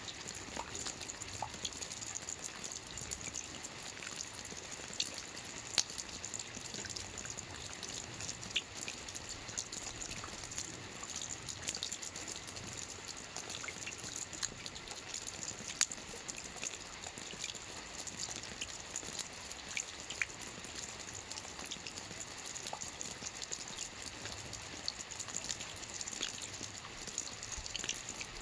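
Soft rain falling steadily on a roof: an even hiss with scattered single drops ticking sharply over it.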